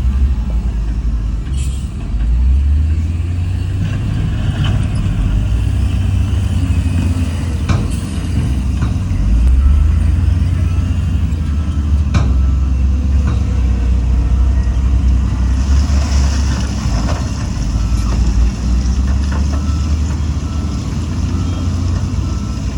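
Heavy diesel earthmoving machinery running with a deep, steady rumble, with occasional metallic knocks and clanks. A burst of air hiss comes about two-thirds of the way through, and faint repeated beeping runs through the second half.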